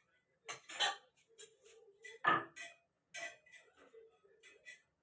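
Kitchen utensils and dishes clinking and knocking: a string of short sharp taps at uneven spacing, the loudest about two seconds in.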